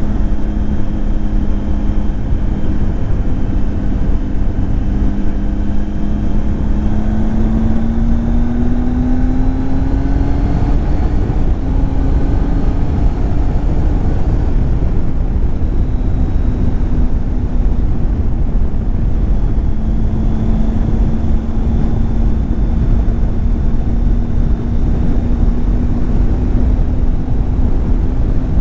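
Triumph Tiger 800 XCX's three-cylinder engine running under way, with heavy wind noise on the microphone. The engine note rises about eight to eleven seconds in, breaks off briefly, then holds a steady pitch.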